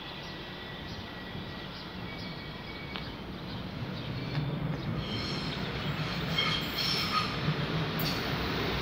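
Train rolling into a station, a low rumble that grows louder from about halfway, with high-pitched wheel squeal joining in during the second half.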